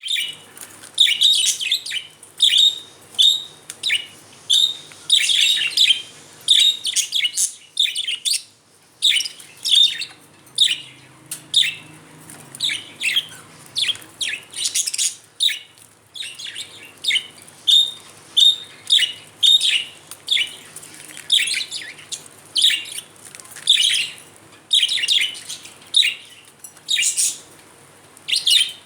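Pet budgerigars chirping: a continuous run of short, high calls, several a second, with brief pauses between bursts.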